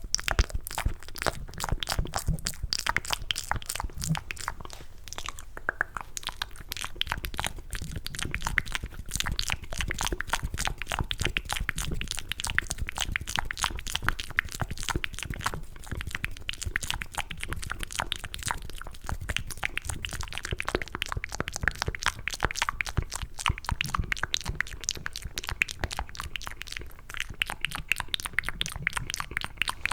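Cupped ASMR mouth sounds: a continuous stream of quick wet clicks and smacks made with the lips and tongue, imitating the sound of eating mac and cheese.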